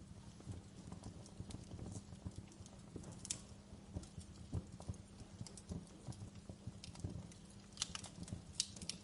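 Logs burning in a fireplace, crackling with irregular pops over a low rumble of flame. A few sharper snaps come about three seconds in and again near the end.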